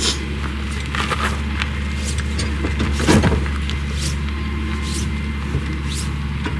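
Steady low vehicle rumble with scattered light clicks and a duller knock about three seconds in.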